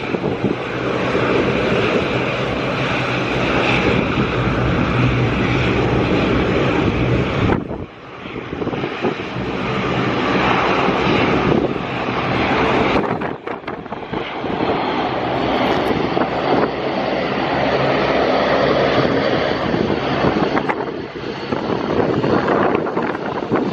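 Airliner engines running loud and continuous as an aircraft passes close by, cutting off abruptly about 8 seconds in and again about 13 seconds in before the engine noise picks up again.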